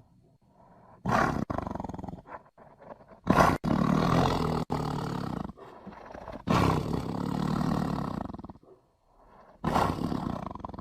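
Tiger growling: a series of about four deep, rough growls with short pauses between them, the loudest beginning about three and a half seconds in.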